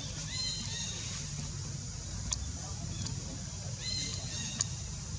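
Baby monkey giving two short, high-pitched cries, one near the start and one about four seconds in, with two sharp clicks between and after them over a steady low rumble.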